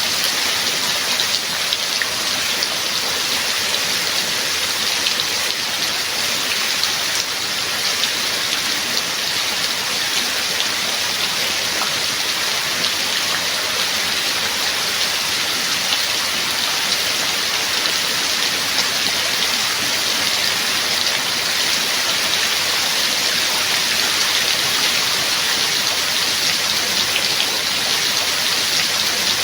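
Steady rain falling: an even, dense hiss made of many small drop ticks, with no thunder.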